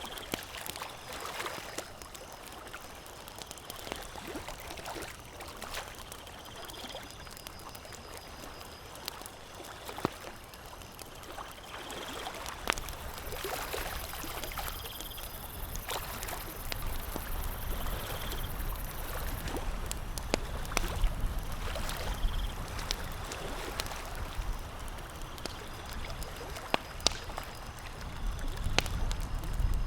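Campfire crackling: scattered sharp pops and snaps of burning wood over a soft hiss. A low rumble comes in about twelve seconds in and stays.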